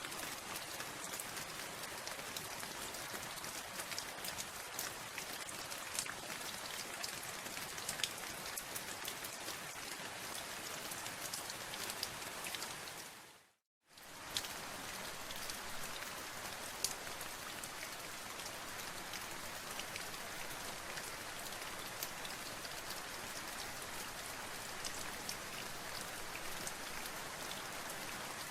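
Rain falling steadily, a dense hiss with scattered sharper drop ticks. About halfway it fades out to silence for under a second, then comes back.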